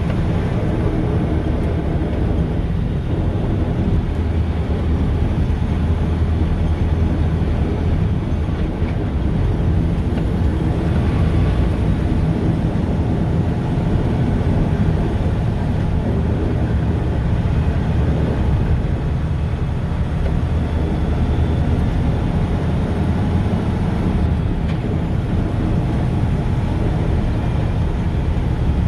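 Mack snowplow truck's diesel engine and road noise heard inside the cab, a steady low drone at an even level.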